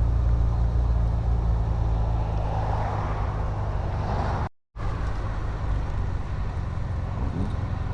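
Triumph Vitesse 2 Litre's straight-six engine running steadily on the move, heard from the driver's seat, with road noise over it. The sound cuts out completely for a split second a little past halfway.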